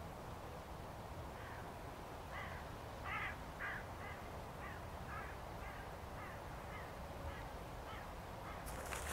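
A bird giving a long series of harsh calls, about two a second, loudest about three seconds in and then fading away. Near the end, a crackling rustle starts.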